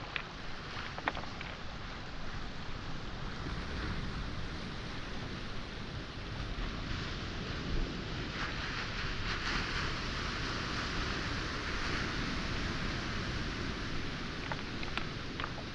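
Waves washing onto a pebble shore, a steady rush that swells through the middle. A few sharp pebble clicks come about a second in and again near the end.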